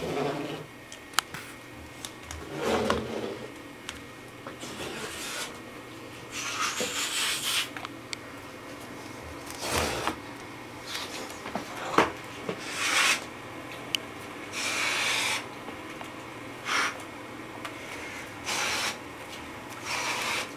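A person making a string of mouth noises: short breathy hisses and rasps, one every second or two, with a lower sound about three seconds in and a few sharp clicks between them.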